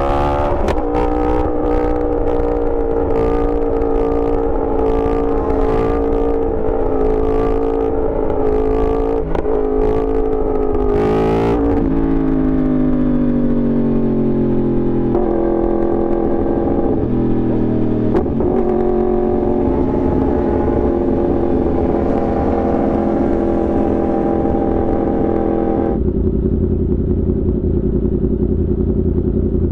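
Yamaha R1's inline-four engine and loud exhaust running at steady throttle, then a brief rise in revs about ten seconds in, followed by the engine note falling in steps as the bike slows through the gears. It settles to a steady lower note near the end.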